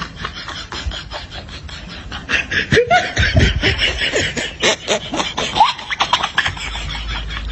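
Laughter sound effect: a burst of laughing starts about two seconds in and fades out about a second before the end, over a fast scratchy rubbing noise heard throughout.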